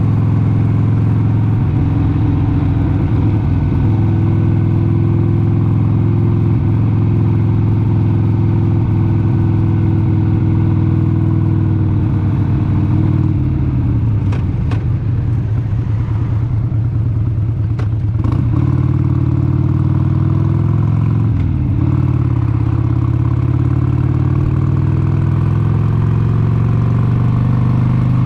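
1996 Harley-Davidson XLH883 Sportster's 883 cc Evolution V-twin running under way on the road. About halfway through the engine note falls off and goes rougher as the throttle eases, changes abruptly twice, then rises steadily again near the end as it pulls.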